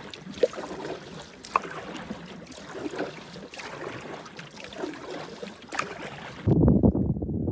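Solo canoe paddle strokes in calm water: soft dips and dripping with small splashes and water pops. About six and a half seconds in, the sound cuts suddenly to a louder, muffled rumble.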